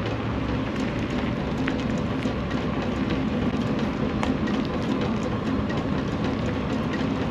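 2026 Tesla Model Y Juniper's Cross Flow wheel covers making a clickety-clack noise as the car rolls at low speed, over steady rolling road noise. The cause of the clicking is not yet known.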